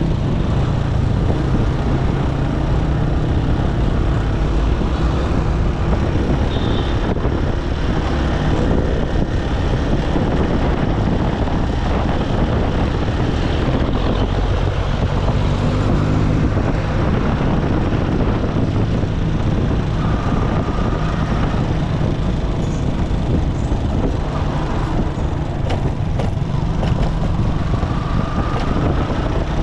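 Motorcycle engine running while riding, under a steady rush of wind and road noise on the microphone, with surrounding traffic. A brief faint high tone sounds twice in the second half.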